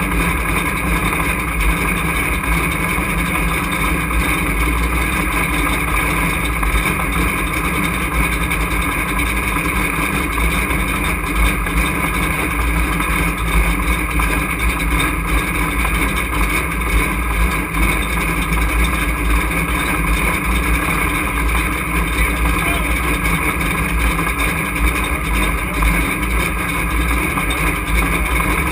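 A race truck's engine running at a steady, unchanging speed, heard loud from inside the cockpit with a deep rumble.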